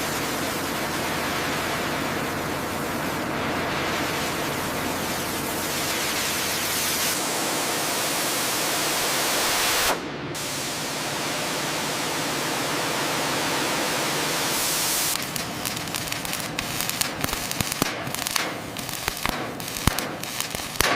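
A steady, loud hiss that breaks off briefly about ten seconds in and then resumes. From about fifteen seconds on it gives way to irregular crackling and popping.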